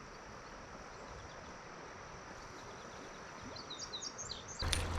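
Outdoor ambience at the riverside: a steady high insect drone over a soft hiss, with a bird giving a quick run of chirps near the end. Just before the end a much louder noise starts suddenly.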